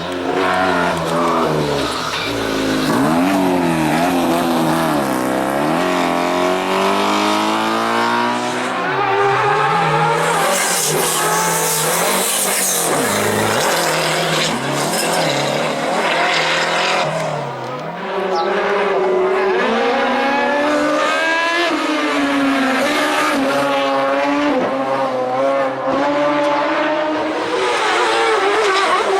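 Car engines revving up and down, their pitch repeatedly rising and falling, with tyre squeal and a burst of hiss partway through.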